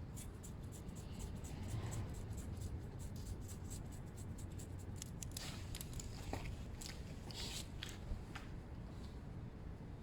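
Trimming the excess off an exhaust-wrap job: quick light clicking and scratchy rasping, dense for the first few seconds, then a few scattered clicks.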